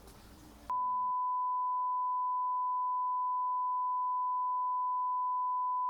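An electronic beep tone switches on abruptly about a second in and holds at one steady high pitch, like an editor's test-tone or censor bleep.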